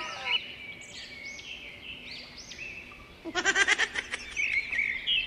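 Birds chirping: a steady run of short, high, arching chirps, with a brief fast rattle about three seconds in.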